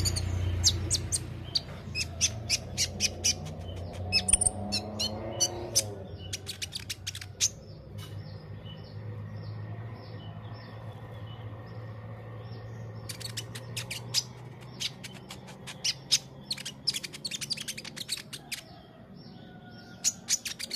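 Songbird singing in rapid runs of sharp, high chirps; in the middle the song changes to a slower series of evenly repeated notes before the fast chirping returns. A low hum runs underneath.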